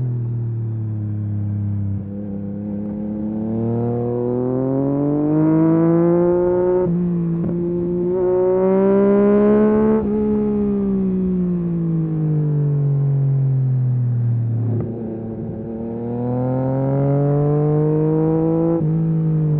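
Yamaha MT-09 SP's three-cylinder engine through a full Akrapovic race exhaust, pulling hard through the gears: the pitch climbs, breaks briefly at a quick upshift about seven seconds in and again near the end. In the middle the revs fall away in one long slide as the bike slows, then climb again.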